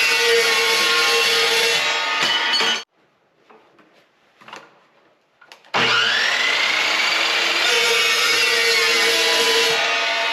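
Evolution chop saw cutting metal stock. It cuts off abruptly about three seconds in, leaving a few light clicks. Just under six seconds in it starts again, the blade spinning up with a rising whine, and cuts on.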